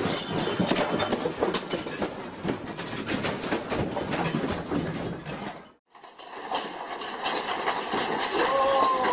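A room shaking in an earthquake: continuous rumbling with dense rattling and clattering of furniture and loose objects. It cuts off suddenly about six seconds in, and similar rattling starts up again after the break.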